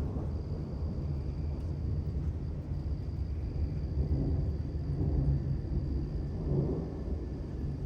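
Distant thunder rolling in a long, low rumble that swells a little now and then, under a faint steady high-pitched tone.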